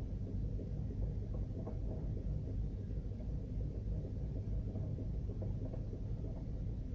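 Citroën Berlingo 1.4i 75 hp petrol four-cylinder engine at a rough idle, a steady low rumble whose loudness flickers unevenly. It is the poor, shaking idle whose cause the owner is asking about.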